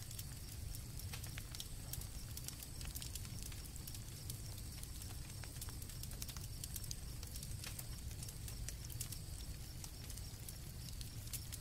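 Campfire crackling: sharp, irregular pops over a low steady rumble, with crickets trilling faintly in the background.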